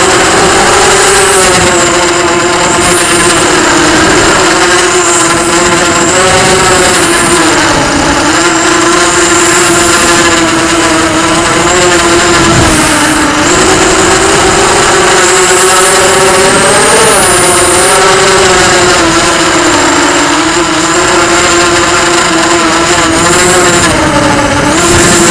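Racing quadcopter's electric motors and propellers running in flight: a loud, continuous buzzing whine whose pitch dips and climbs back several times as the throttle changes.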